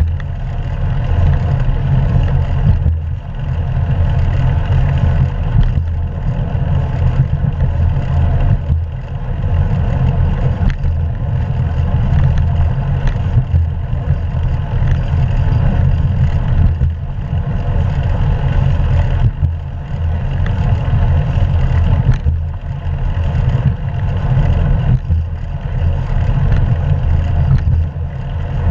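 Wind rumbling over an action camera's microphone while cycling, with the hum of the bike's tyres on the road; steady, dipping slightly every few seconds.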